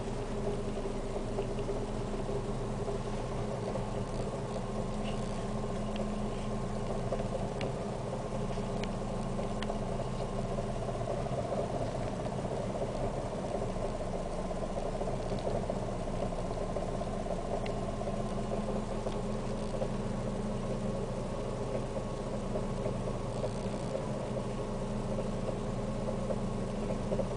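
Fiat Siena 1.6's four-cylinder engine idling roughly, a steady drone heard inside the cabin, with a few faint ticks. The rough idle comes with a constant shake felt inside the car.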